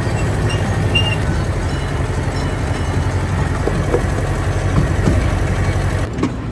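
Steady low rumble of an amusement ride running, which drops suddenly in level near the end.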